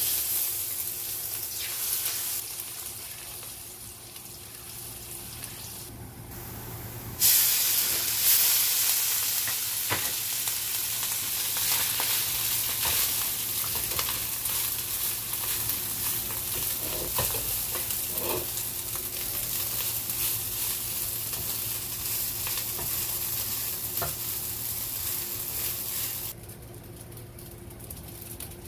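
Minced garlic sizzling in hot oil in a nonstick wok. About seven seconds in the sizzle jumps louder as rice is fried and stirred with a spatula, with light scraping against the pan. The sizzle drops off suddenly near the end.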